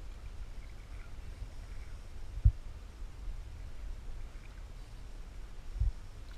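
Canoe under way on a river: a steady low rumble with two dull knocks, one about two and a half seconds in and one near the end.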